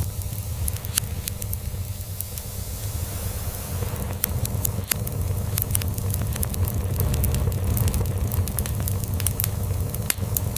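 Log fire crackling with many sharp pops, over a steady low cat purr.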